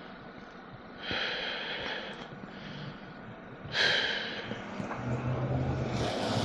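A person breathing close to the microphone, with two breathy puffs or sniffs: one about a second in and a louder one near four seconds.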